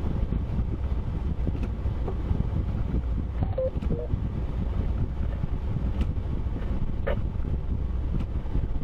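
Steady low rumble of a car's engine and road noise while driving, heard from inside the cabin. A couple of brief faint beeps come about three and a half seconds in.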